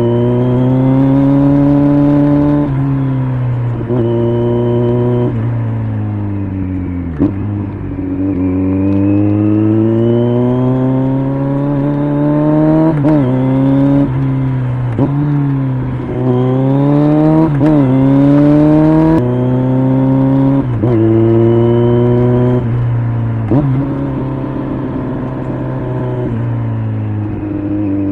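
Kawasaki Z900 inline-four engine through an LCI aftermarket exhaust, repeatedly accelerating and slowing. The pitch rises steadily and drops abruptly at each gearshift, with a few sharp short cracks along the way.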